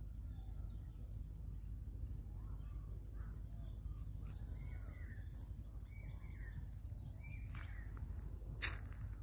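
Birds calling now and then over a steady low background rumble, with one sharp click a little before the end.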